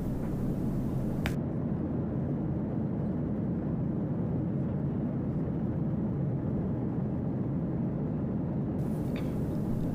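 Steady low rumble of airliner cabin noise in cruising flight.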